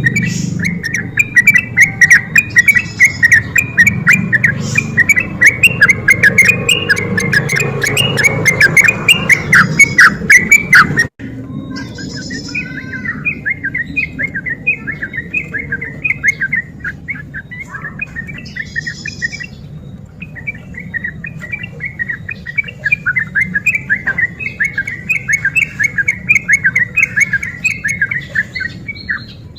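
Yellow-vented bulbul (trucuk) singing a fast, continuous chattering song of quick notes. The recording cuts abruptly about eleven seconds in, and the song goes on from there at a lower level.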